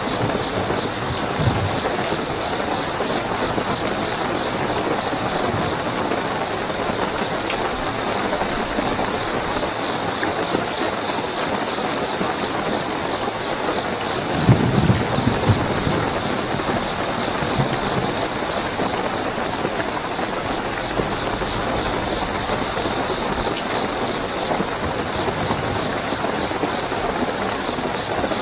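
Steady heavy rain with a continuous high cricket trill over it. About halfway through, a brief low rumble rises above the rain.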